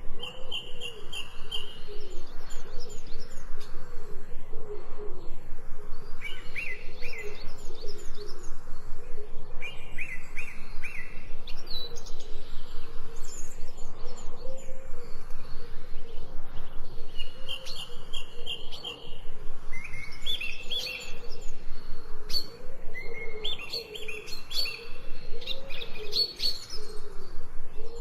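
Birds chirping in short runs of three to five quick high notes, repeated every few seconds and more often near the end, over lower wavering calls and a fast, even pulsing.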